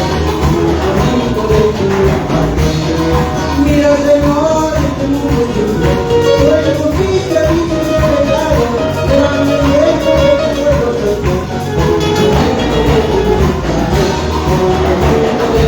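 Latin American band music with singing, a melody carried over a steady beat.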